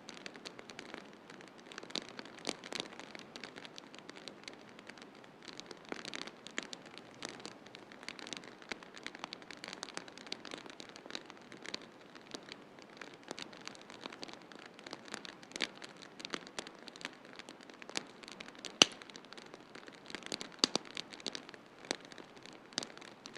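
Wood fire in a fireplace crackling, with frequent sharp pops over a steady hiss. The two loudest pops come in the last third.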